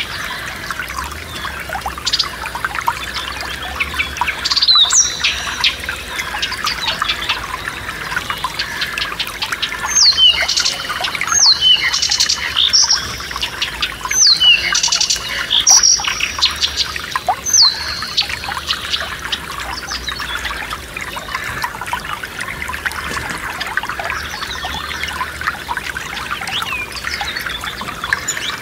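A forest stream trickling steadily, with songbirds singing over it. One bird repeats sharp, downward-sweeping notes, loudest between about ten and eighteen seconds in.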